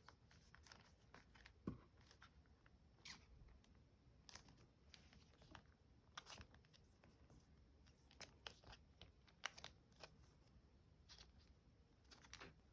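Near silence broken by scattered faint, short taps and rustles of packaging being handled.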